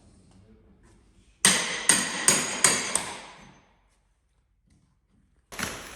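Five quick, sharp metallic strikes about 0.4 s apart, each ringing on and dying away, followed by a few seconds of near silence. A new sound starts near the end.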